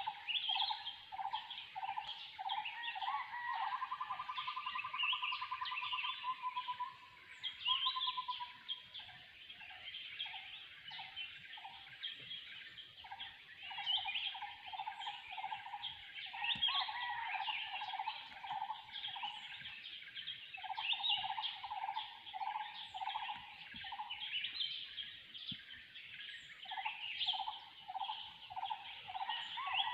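Forest birds calling: one bird repeats a short, low, hollow note about twice a second in long series, with a rolling trill about four seconds in, over a dense chorus of higher-pitched bird calls.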